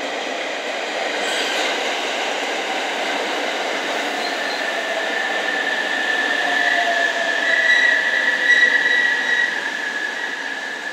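JR West 289 series electric limited express pulling into a station and slowing: a steady rush of wheels on rail, with a lower tone that falls in pitch as it slows. A high brake squeal builds and is loudest about eight seconds in, then eases.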